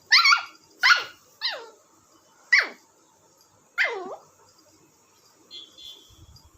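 Indian spitz puppy giving five short, high-pitched yelping barks in the first four seconds, each one sliding sharply down in pitch.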